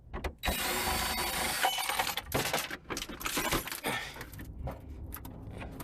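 Car parts being handled during disassembly: a rough scraping and rattling for a couple of seconds, then scattered clicks and clatter as pieces are moved and pried.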